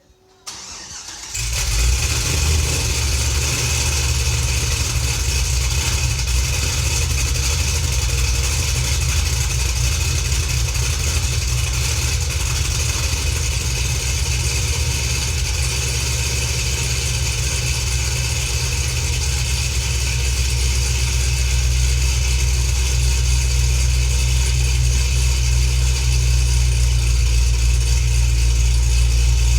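Cadillac CTS-V V8 with a big cam, 2-inch headers and a catless 3-inch exhaust, started from coldish: a brief crank, it catches about a second in, then idles loud and steady, a little louder in the second half.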